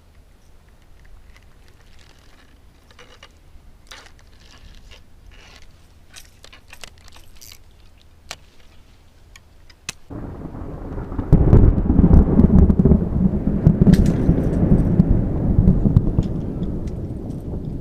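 Thunder: scattered light ticks in near quiet, then about ten seconds in a loud, low rumble of thunder breaks in suddenly and rolls on, easing a little near the end.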